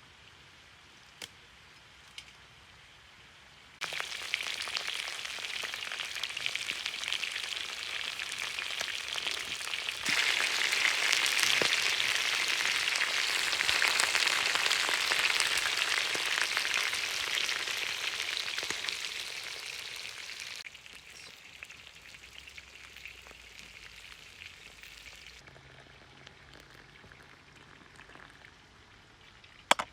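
Meat frying in hot fat: a sizzle that starts suddenly about four seconds in, grows louder around ten seconds, then dies down in steps toward the end.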